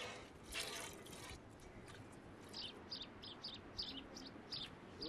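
A brief rush of splashing or pouring water, then small birds chirping over and over, about three short high chirps a second.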